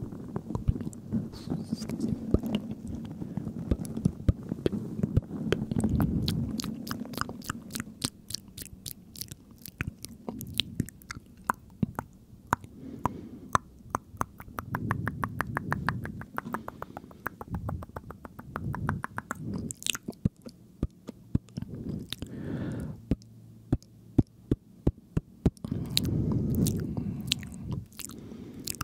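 Close-miked ASMR mouth sounds: rapid runs of wet mouth and tongue clicks, several a second in long strings, over muffled low swells of inaudible whispering and smacking.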